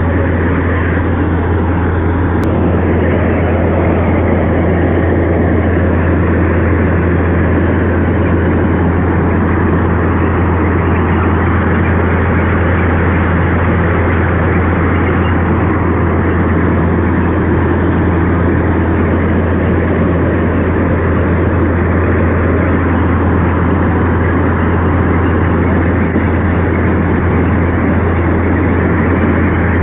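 A heavy engine running steadily, with a constant low drone under a rough noise.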